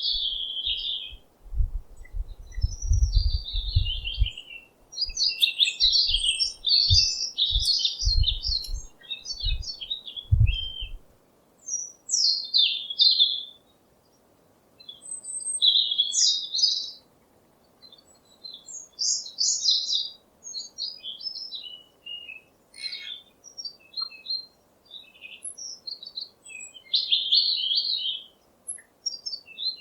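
Small songbirds chirping and twittering in short, rapid phrases with brief pauses between them. Low dull thumps come and go during the first ten seconds or so.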